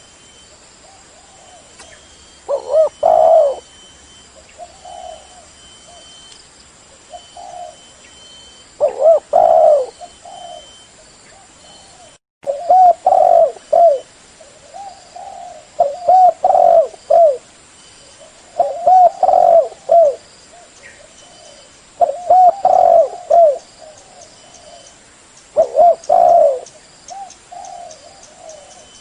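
Spotted dove (terkukur) cooing in repeated low phrases, one about every three seconds, some phrases longer and louder than others.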